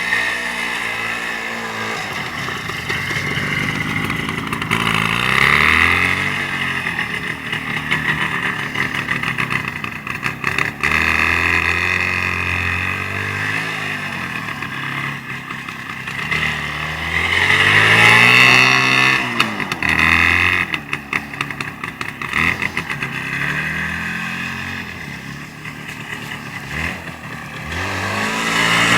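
Motorcycle engine running and being revved up and down repeatedly, its pitch climbing and falling several times.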